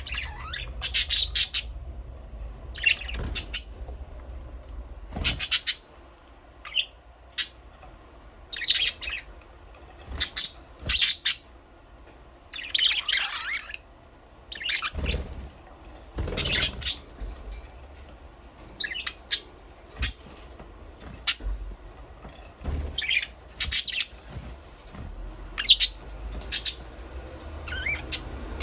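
Budgerigars chirping and chattering in short, irregular bursts of high-pitched calls, with the odd harsher squawk.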